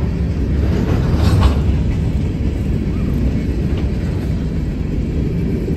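Train rolling past with a steady low rumble of wheels on rails, and a brief burst of sharper clatter about a second in.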